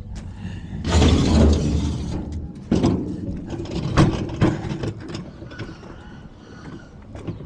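Mechanical clanking and rattling: a heavy scraping rumble about a second in, then several sharp knocks and lighter rattles.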